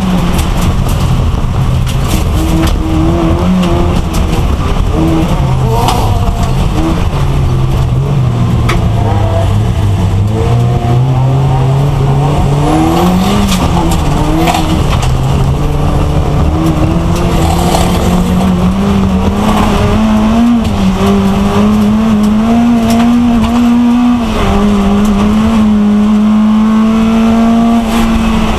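Race car engine heard from inside its stripped, caged cabin while lapping, loud throughout. Its note sinks to a low point about nine seconds in, then climbs steadily over the next fifteen seconds, dips briefly about twenty-four seconds in and holds high again.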